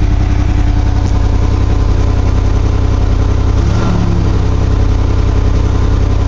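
1982 GMC S-15's carbureted 2.8 V6 running at fast idle while it warms up from a cold start, with the choke still on. The exhaust is loud because of a crack in one of the exhaust manifolds.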